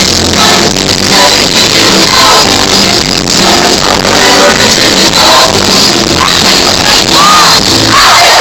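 Loud live rock music from a band with singing, the crowd yelling along, recorded on a phone with poor, distorted sound.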